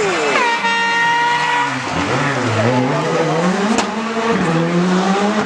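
Rally car on the stage: the engine note falls as it slows into the corner, tyres squeal steadily for about a second and a half, then the engine pulls away with its pitch climbing steadily.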